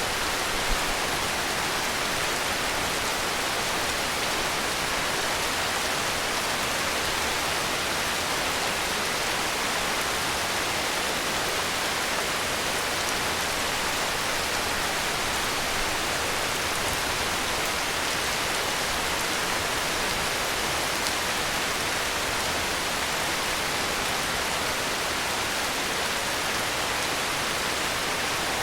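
Heavy rain falling steadily, an even hiss that does not change, with one brief louder tap about a second in.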